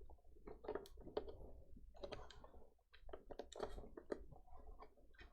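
Faint, irregular light clicks and taps of plastic parts being handled.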